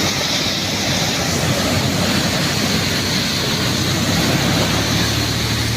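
Steady rushing noise of surf and wind on a beach, with a low engine hum that grows stronger near the end.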